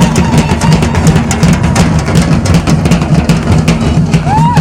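Loud drumming in a fast, steady rhythm, with heavy bass drum hits under quicker drum strokes.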